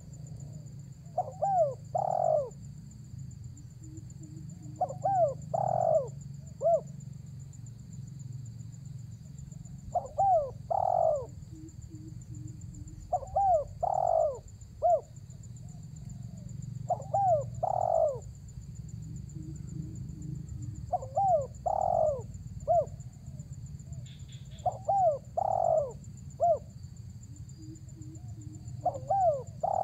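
Spotted dove (tekukur) calling vigorously: a cooing phrase of three or four notes, repeated about eight times at roughly four-second intervals. A steady low hum and a thin, high, continuous whine run underneath.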